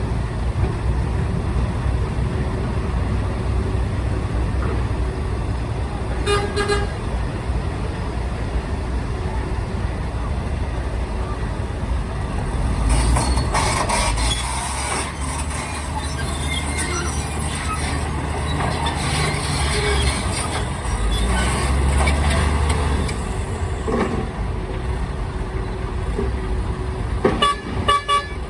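Diesel engines of heavy earthmoving machines and dump trucks running with a steady low rumble. A truck horn toots briefly about six seconds in and again near the end.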